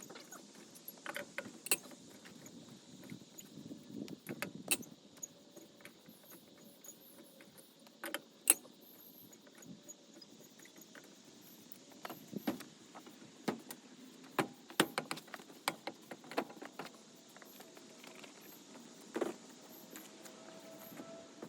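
Scattered metallic clinks and knocks of hand tools and wheel hardware during removal of a wheel from a vehicle, irregular, with a few sharper strikes.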